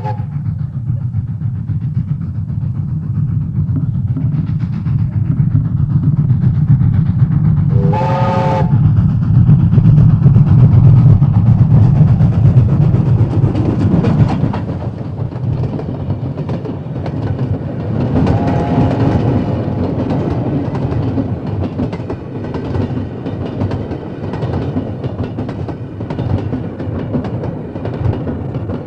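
Train passing with a heavy low rumble and wheels clacking over the rail joints. It gives a short, loud blast of its multi-tone horn about eight seconds in, and a fainter, longer horn sound about ten seconds later. The rumble drops about halfway through, leaving steady clickety-clack of the passing cars.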